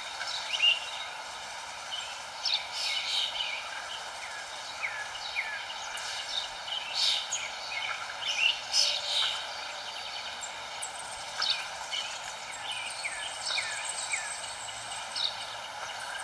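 Several small songbirds chirping, short quick calls scattered throughout, over a steady outdoor hiss, with a thin high steady note joining in about halfway.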